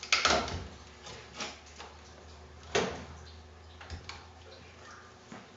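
A few separate sharp knocks and clunks, likely the truck cab being lifted and set onto wooden blocks. The loudest come right at the start and about three seconds in, with lighter ones a second and two seconds later.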